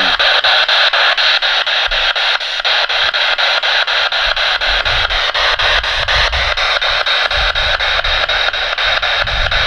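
Radio-sweep spirit box scanning: a steady hiss of radio static, chopped into rapid, even pulses as it sweeps through stations.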